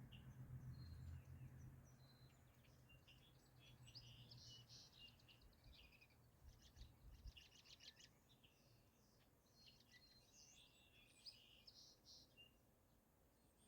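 Faint birdsong: several birds giving short chirps and quick trills. A low rumble underneath fades out about halfway through.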